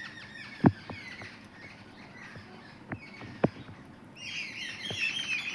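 Small birds chirping in the background. The chirping grows louder and denser in the last second or so. A few sharp clicks sound in between, about a second in and twice more around three seconds in.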